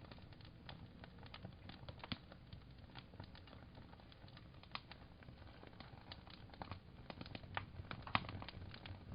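Wood fire crackling, with irregular small pops and snaps over a low steady rumble; one sharper snap near the end.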